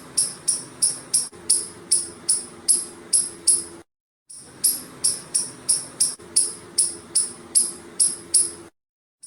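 Squirrel giving sharp, high-pitched chirping calls, about three a second, in bouts broken twice by brief total silences. A faint low steady hum sits underneath.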